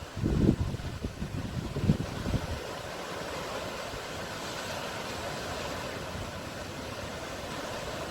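Sea surf washing in a steady hiss of breaking water, with low rumbling buffets, like wind on the microphone, in the first two and a half seconds.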